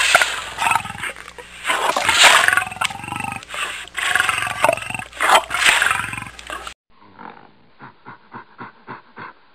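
Lion growling and roaring in a series of loud, rough calls. About seven seconds in it cuts off abruptly to a quieter animal sound pulsing about three times a second.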